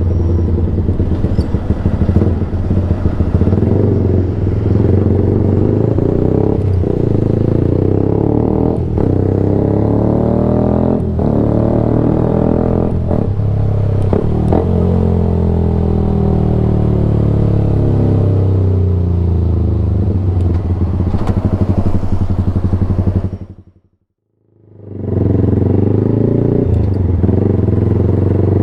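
Yamaha YZF-R sportbike engine running loud through an unbaffled Black Widow exhaust can, its pitch rising and falling repeatedly as the bike accelerates, shifts and slows. The sound fades to silence for about a second near the end and then comes back.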